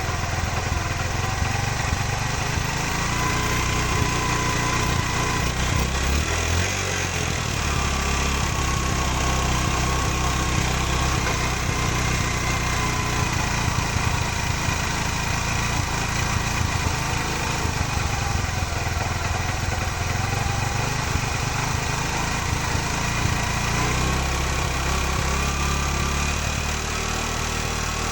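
A TVS Star Sport ES motorcycle's single-cylinder four-stroke engine idling steadily, its speed drifting up and down slightly a few times.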